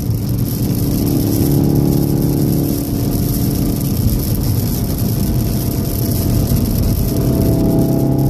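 Cabin sound of a 2014 VW Golf VII R's turbocharged four-cylinder engine at high speed, about 140 km/h, over a constant hiss of tyres on a wet road. The steady engine note fades into road noise through the middle and comes back strongly near the end.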